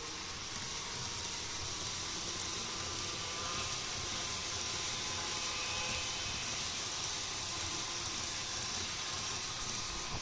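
N gauge model Shinkansen train running on the layout track: a steady hiss of wheels and motor with a faint whine, swelling a little toward the middle.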